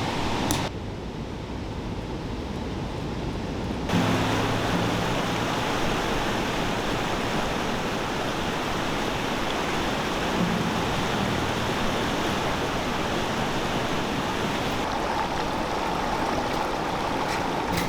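Flowing stream water rushing steadily. The sound drops quieter about a second in and comes back louder about four seconds in.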